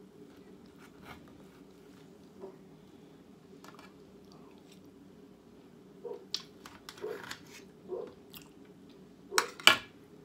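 Close-up eating sounds of a person eating steak: sparse wet clicks and crunches of chewing, picking up about six seconds in, with the two loudest close together near the end. A faint steady low hum runs underneath.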